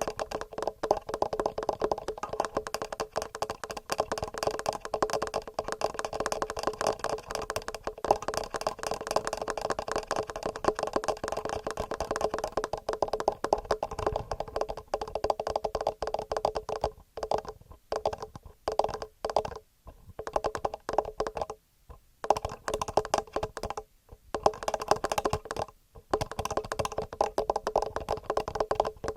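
Fast fingernail tapping on a TASCAM handheld recorder and its built-in microphones: a dense run of small clicks, broken by several short pauses in the second half.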